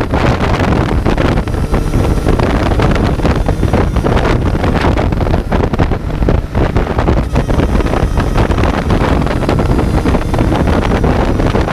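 Kawasaki Z900's inline-four engine running while the bike is ridden, mostly buried under heavy wind buffeting on the microphone.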